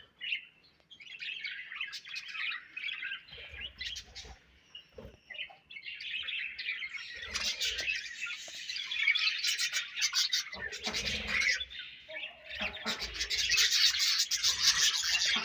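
A colony of budgerigars chattering and chirping together, sparse at first and growing into a dense, louder warble in the second half, with a few faint low thumps.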